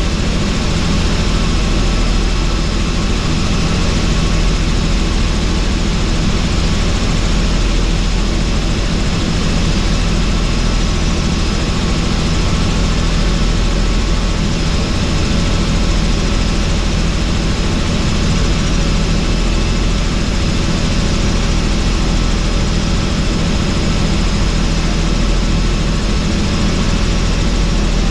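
Helicopter in flight with the doors off: steady, loud rotor and engine noise with rushing wind.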